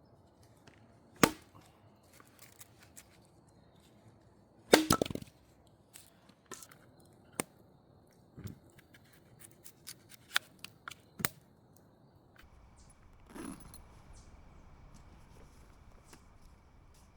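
Wood being chopped: two loud sharp chops about three and a half seconds apart, the second a quick cluster of hits, then lighter knocks and clicks of wood being handled. Later the background shifts to a steady low rumble with a faint high tone.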